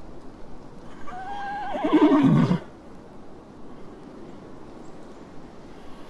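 A horse neighing once, about a second in: a quavering whinny that falls in pitch and cuts off after about a second and a half.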